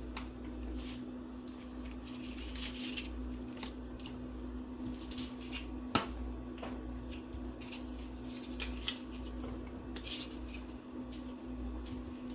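Crackers being handled and laid onto fish during food preparation: scattered light clicks, crinkles and small knocks, with one sharper click about six seconds in, over a steady low hum.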